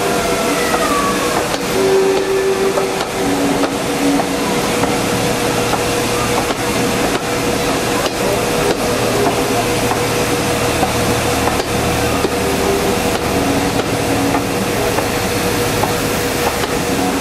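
Passenger train coaches rolling steadily past, with a continuous hiss and faint wheel clicks now and then. A low hum sounds from about five to thirteen seconds in.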